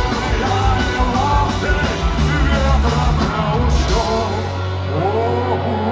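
Punk rock band playing live at the end of a song, with loud guitars, bass and drums and yells from the stage or crowd. About four seconds in, the drums and cymbals stop and a held low chord rings on.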